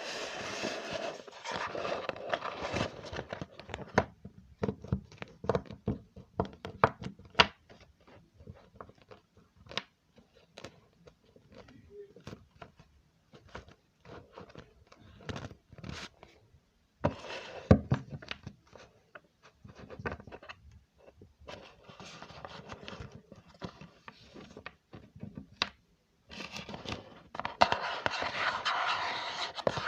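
Close-miked ASMR trigger sounds: rustling or scratching at the start and again near the end, with many quick, irregular taps and clicks in between.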